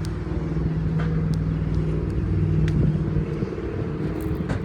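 A vehicle engine idling steadily, with a slight swell near the middle and a few faint clicks.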